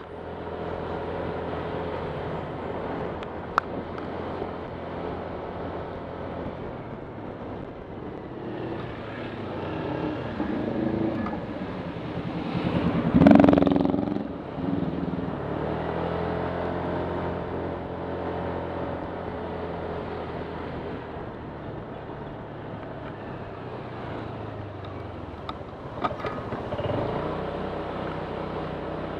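Honda Click 125 scooter's single-cylinder engine running on the move, its pitch rising and falling with the throttle. There is a louder rushing swell about halfway through and a couple of short clicks.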